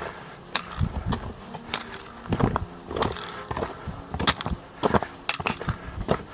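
Hiking boots crunching on snow, with steps coming irregularly about one to two a second.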